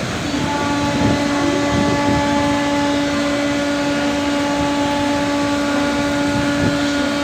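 Train horn sounding one long, steady blast that starts just after the beginning, over the noise of the arriving train.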